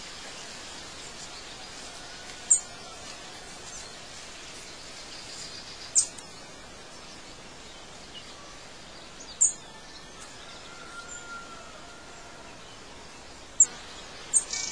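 Outdoor bird ambience: a steady background hiss with short, very high bird chirps every three to four seconds, five in all, the last two close together near the end, and a faint soft whistle in between.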